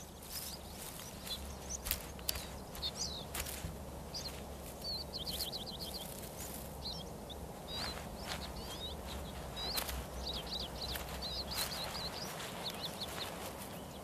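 Small songbirds chirping and trilling in short repeated phrases over a steady low outdoor background, with scattered light knocks and rustles.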